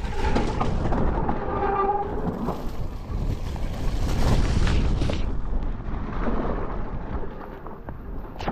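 Electric mountain bike riding over a wet, muddy trail: a continuous low rumble of wind buffeting and rattling on the ride camera, with scattered knocks from the rough ground. A droning tone sounds twice in the first two seconds.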